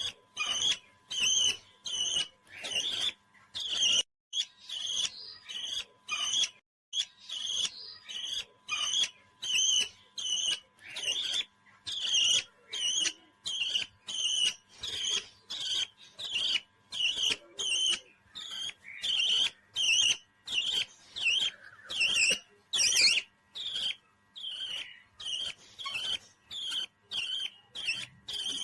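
Parrot calling in short, high chirps repeated evenly about twice a second, with brief pauses twice.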